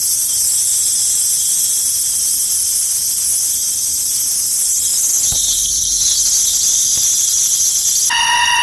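Cicada buzzing loudly and steadily in a high, hissing whine. Just after 8 seconds in, the sound abruptly changes to a lower, more tonal drone.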